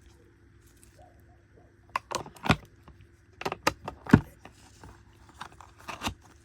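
Small packaged items being handled and set down on a table: a string of sharp clicks and knocks, the loudest about two and a half and four seconds in.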